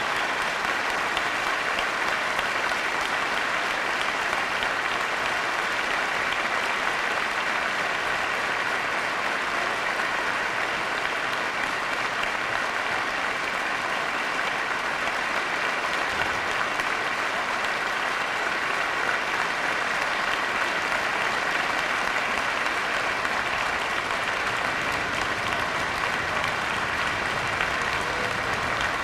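Audience applauding steadily and without a break at the end of a song.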